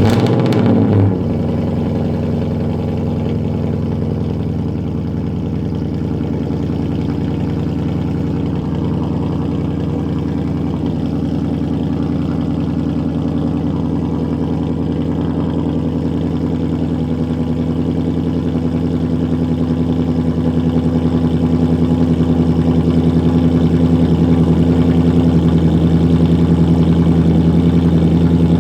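Ford 5.0 L Coyote V8 of a 2024 Mustang GT, breathing through an X-pipe with the mufflers deleted, fires up with a brief rev and settles into a steady idle. The idle grows a little louder about twenty seconds in.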